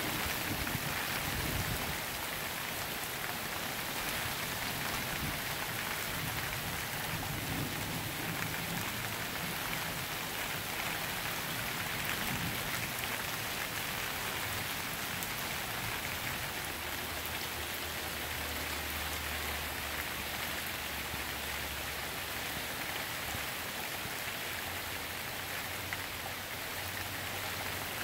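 Steady rain falling on lawns, pavement and a wet street during a thunderstorm, an even hiss throughout.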